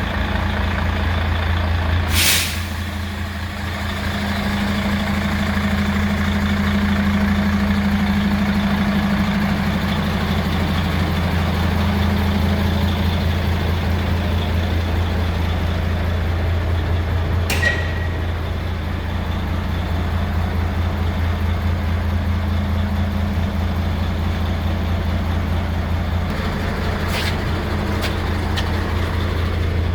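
Mercedes-Benz Actros 2640 truck's diesel engine idling steadily. There are three short, sharp hisses of compressed air from the air brake system, about two seconds in, just past the middle and near the end.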